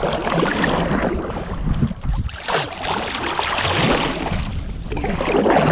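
Water splashing and rushing around a kayak being paddled, swelling and easing, with wind on the microphone.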